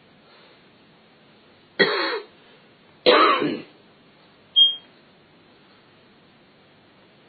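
Parrot making two short, raspy cough-like sounds about a second apart, then a brief high whistled chirp.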